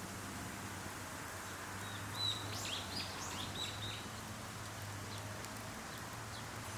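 A bird calling in a quick run of short, high chirps about two to four seconds in, over steady outdoor background noise with a low hum.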